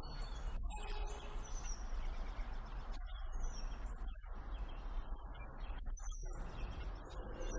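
Birds calling with short, high chirps every second or two over a steady rushing noise of wind and water from a moving boat.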